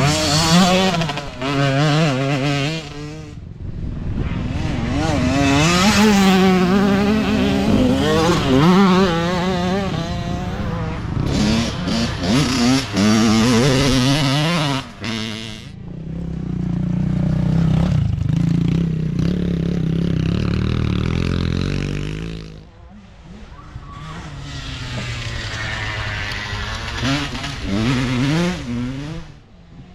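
Small dirt bike engines revving and passing one after another, their pitch wavering quickly up and down with the throttle. The sound dips briefly about two-thirds of the way through, then another bike comes by.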